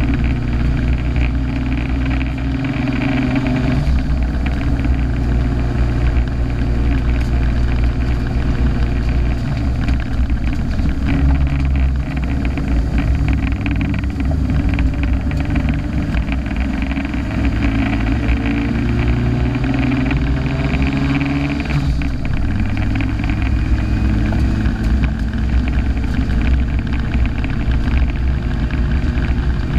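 Turbocharged car engine running hard under load, recorded onboard: its pitch climbs steadily through the revs and drops back several times at gear changes.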